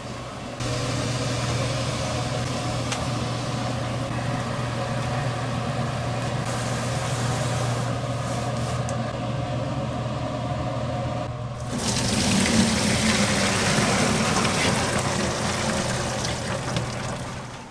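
Water running steadily over a low machine hum; about twelve seconds in the flow turns louder and brighter.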